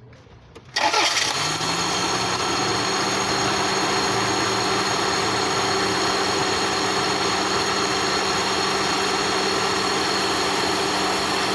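Toyota Corona's 3S inline-four petrol engine starting about a second in, its speed rising briefly, then settling into a steady idle.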